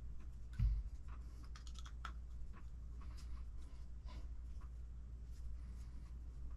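Small, scattered clicks and taps of hand tools and small parts being handled during a bench assembly of an RC car kit, with one dull low thump about half a second in.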